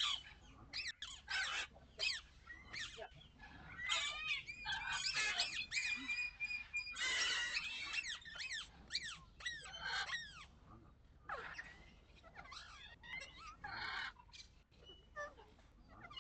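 Birds calling and singing together, a dense tangle of overlapping chirps and quick whistled glides, busiest in the middle of the stretch.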